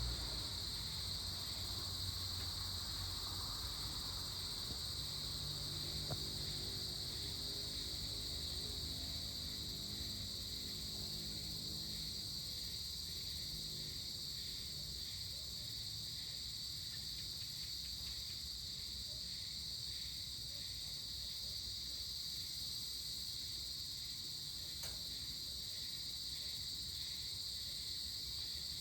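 Steady high-pitched chorus of evening insects, crickets or the like, trilling without a break, over a faint low rumble.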